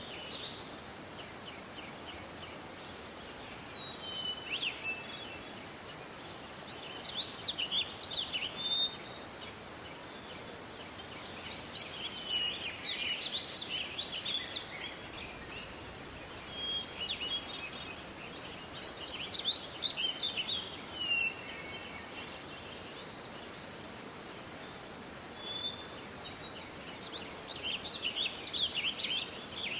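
Songbirds singing: bursts of rapid, high chirping song every few seconds, with scattered single high notes, over a steady background hiss.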